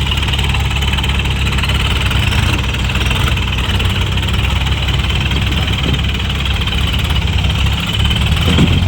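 Tractor diesel engine running steadily at low revs, its pitch starting to rise near the end.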